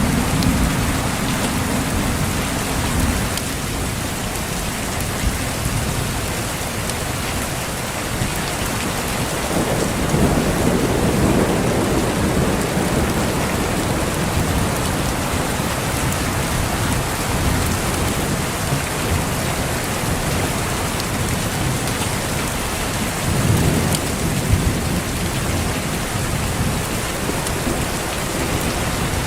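Steady heavy rain with thunder. Low rolling rumbles swell up near the start, again about ten seconds in, and once more near the end.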